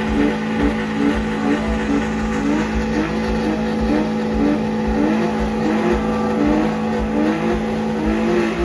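A car engine held at high revs, with a steady pitched drone and a rhythmic rise-and-fall pulse repeating about twice a second.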